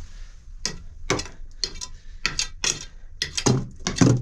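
A series of irregular sharp clicks and knocks, a few a second, growing louder and more frequent toward the end.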